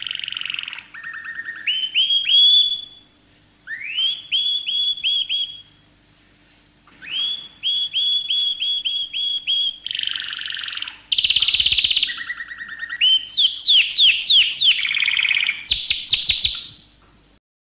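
Bird song in phrases: runs of short, rising whistled notes repeated several times a second, rapid trills and harsh buzzy notes, with brief pauses between phrases.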